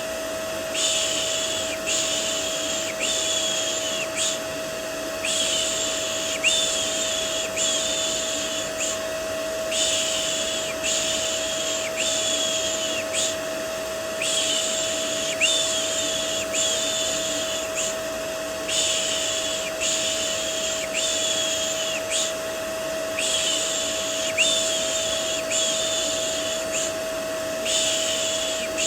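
A vacuum cleaner runs steadily with a constant motor whine. Over it, a person's 'shh' shushing repeats about once a second, in runs of four or five with short breaks: a white-noise mix for soothing a baby to sleep.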